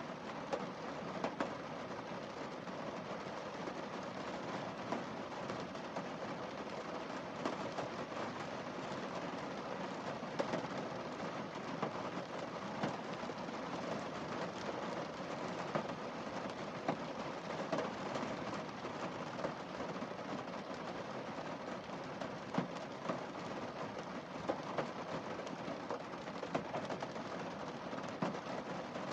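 Rain falling on a car windscreen: a steady patter of drops, with frequent louder single drops striking the glass.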